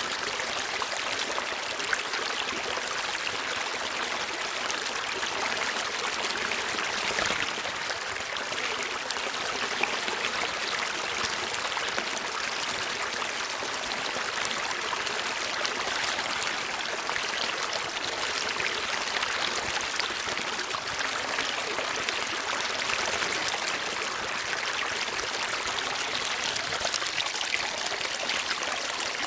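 Steady running water of a stream, flowing and trickling without a break.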